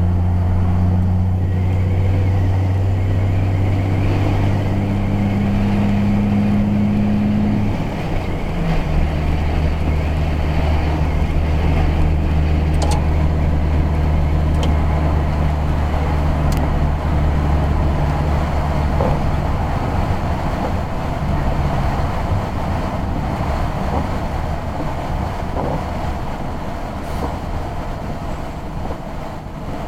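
Vehicle engine humming steadily over tyre and road noise, heard from inside the cabin while driving. The engine note shifts lower about eight seconds in and fades after about twenty seconds, leaving mainly road noise.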